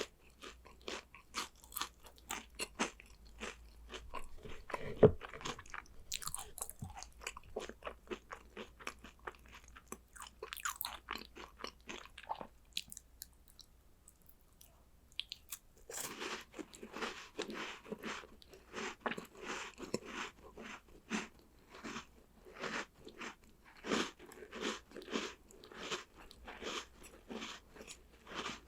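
Close-miked crunchy chewing and biting of chocolate snacks, with one sharp bite about five seconds in. The crunching stops for a few seconds about halfway, then resumes as steady, rhythmic chewing.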